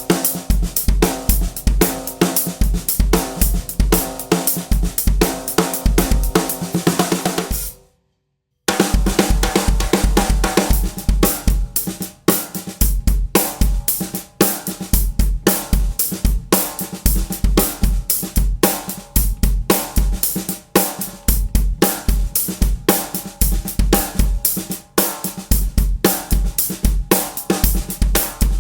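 Unmuffled 14" x 6" London plane wood snare drum with a coated Remo Ambassador head, played in a drum-kit groove with bass drum, hi-hat and cymbals. It is in low tuning at first, then after a short silence about eight seconds in it plays in medium tuning.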